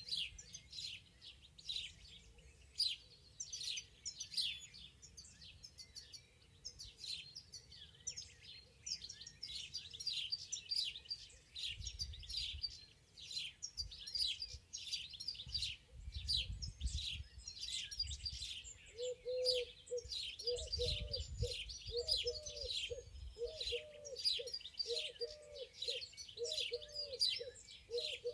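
Many songbirds chirping and singing together in a spring forest, busy and overlapping. About two-thirds of the way in, a lower-pitched call joins and repeats steadily, more than once a second.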